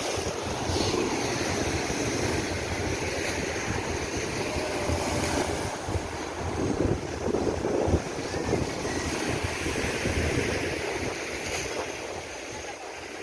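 Ocean surf washing ashore, mixed with wind buffeting the microphone: a steady, rumbling noise that swells and eases.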